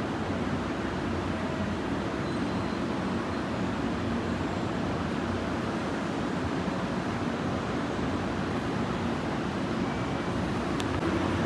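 Steady rumble and hum of a JR Shikoku 7200 series electric train, with no change in level.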